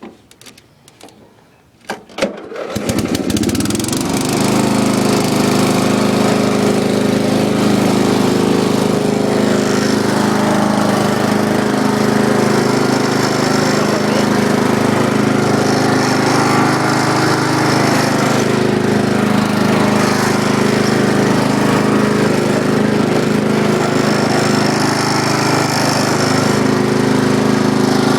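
A few clicks, then a small walk-behind lawn mower engine starts about two and a half seconds in, picks up over a second, and runs steadily and loudly.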